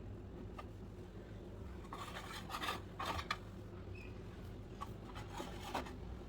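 Rough scraping strokes over a low steady hum, bunched together about two to three seconds in, with a few shorter strokes near the end.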